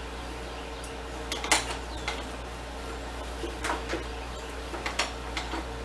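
Scattered light metallic clinks and clanks of metal tools and parts being handled, a handful over several seconds, over a steady hum.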